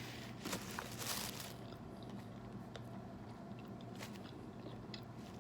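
A person biting into a Subway tuna sandwich with lettuce, peppers and onions, a short crunchy burst about a second in, then quiet chewing with small scattered clicks.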